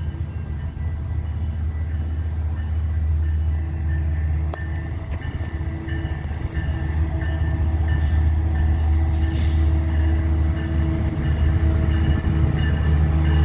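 Metrolink commuter train running, a steady low rumble that grows gradually louder, with a faint high ringing repeating about twice a second.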